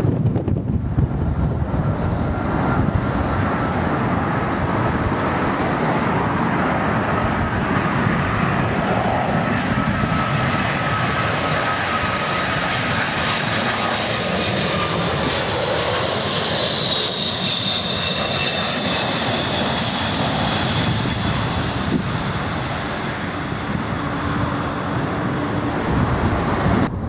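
Jet airliner's engines passing close by: a steady rumble with a high whine that swells and falls in pitch about two-thirds of the way through. Gusting wind buffets the microphone near the start and the end.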